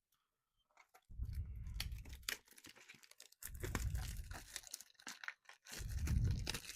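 Packaging of a Pokémon booster bundle being torn and crinkled open by hand, in three bouts of tearing and rustling with short pauses between, starting about a second in.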